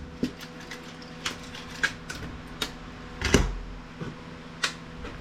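Scattered clicks and knocks of metal and plastic parts being handled as a small network switch is taken apart, with one louder knock about three seconds in. A faint steady hum runs underneath.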